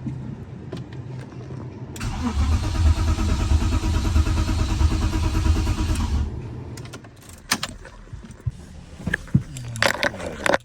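Car engine cranked over by its starter for about four seconds with an even, rhythmic chug, turning without catching; the owner suspects it is not getting fuel. A few light clicks and knocks follow after it stops.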